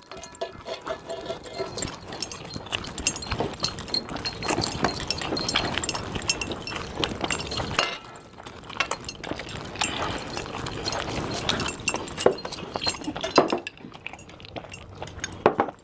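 People eating chicken leg pieces as fast as they can: chewing, smacking and tearing at the meat, with many small clicks and clinks throughout.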